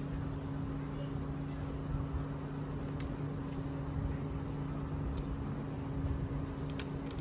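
A vehicle engine idling with a steady low hum, over a background rumble of traffic, with a few faint clicks.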